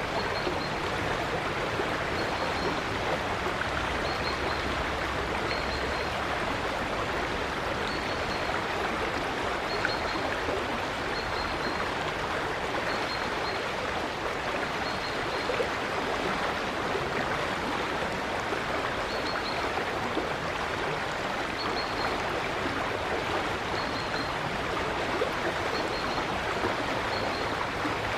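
River water flowing steadily, with faint short high chirps from a bird every second or two.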